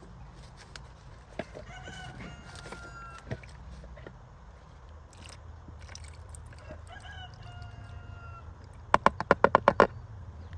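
A rooster crowing twice, each crow one long held call, a couple of seconds in and again about seven seconds in. Near the end a quick run of about eight sharp knocks within a second, louder than the crows.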